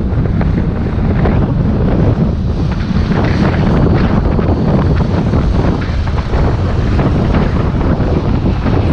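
Heavy wind buffeting on the microphone of a camera carried on a moving electric bike: a loud, steady, low rumble of noise with no break.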